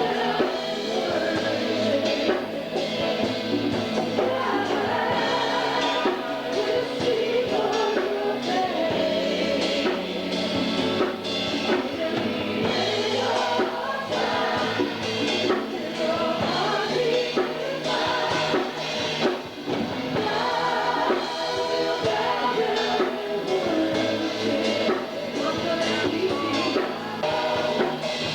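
Live church worship music: several voices singing a song together, backed by a band with a drum kit keeping a steady beat.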